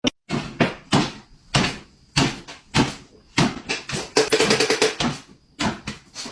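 A string of irregular knocks and bangs, a dozen or more sharp hits about half a second apart, with a dense cluster of rattling hits a little past the middle.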